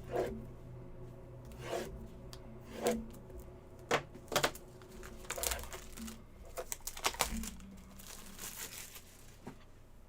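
Trading-card packaging being torn open and handled: a series of short rustles and tears, with a longer crinkling stretch near the end.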